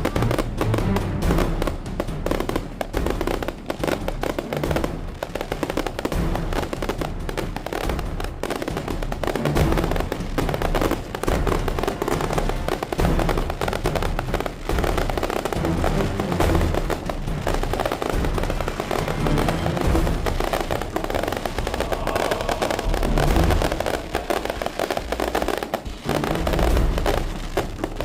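Firecrackers and fireworks going off in a dense, continuous crackle of rapid pops, with music underneath.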